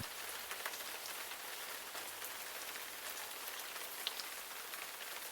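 Steady rain falling, a soft even hiss of drops with a few faint taps.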